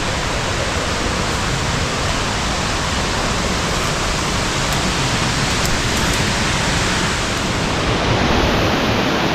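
Waterfall on a creek swollen after rain, a loud steady rush of falling water.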